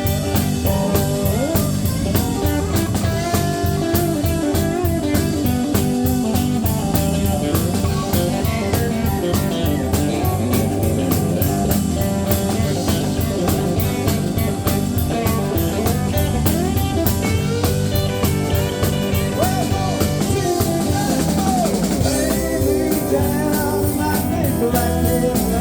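A live country-rock band plays an instrumental break: a lead guitar plays gliding, bent notes over a steady drum-kit beat and bass.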